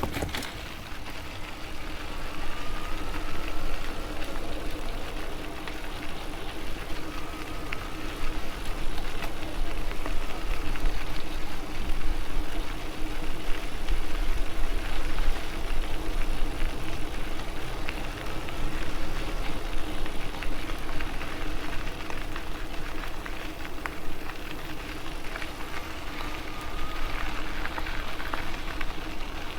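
Steady wind and rolling noise from an electric bike being ridden along a trail, with a low steady hum under it.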